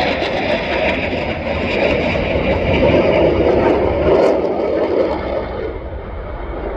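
Aircraft engine noise from an airplane flying past, a steady rushing roar that eases off a little near the end.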